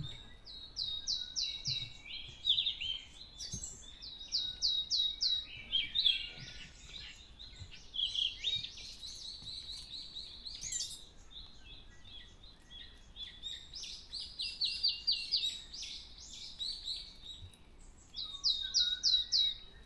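Several songbirds singing: one repeats a short, rapid run of high notes every few seconds, with other birds chirping and calling in between.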